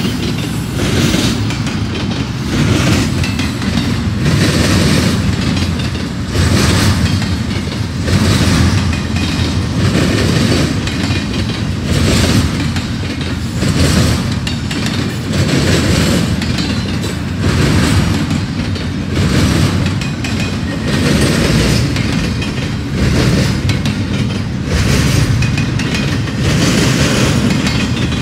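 Double-stack intermodal freight train rolling past, its well cars' wheels rumbling and clattering over the rail joints in a steady rhythm, one clatter about every two seconds.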